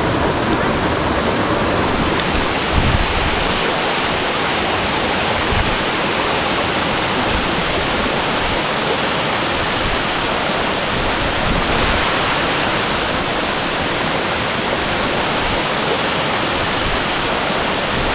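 Waterfall pouring steadily, a dense, even rush of water.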